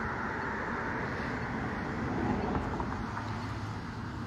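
Steady outdoor background noise, a continuous rumble and hiss like road traffic, with no distinct events.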